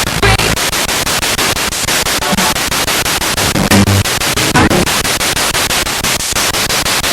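Spirit box, a radio rapidly sweeping through stations: loud static chopped into quick regular pulses, with brief snatches of broadcast voice breaking through a few times.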